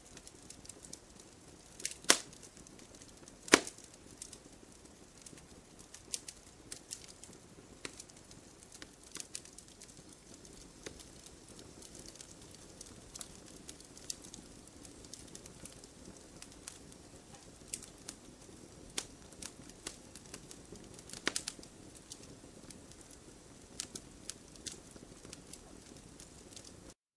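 Wood fire crackling: a steady low hiss of burning with frequent small snaps, and loud pops about two and three and a half seconds in and again past the twenty-second mark. The sound cuts off suddenly just before the end.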